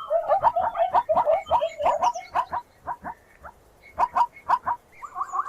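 Farm animal calling in a fast run of short calls, breaking off for about a second, then a few more calls near the end.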